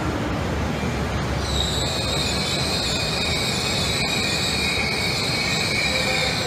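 E6-series shinkansen train rolling slowly along the platform, with a steady high-pitched squeal setting in about a second and a half in and holding over the low running noise.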